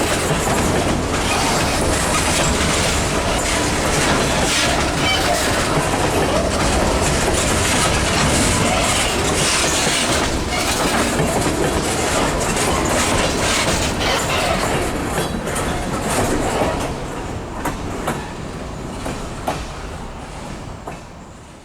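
Freight train cars rolling past on the rails, a steady rumble and clatter of wheels that fades away over the last few seconds.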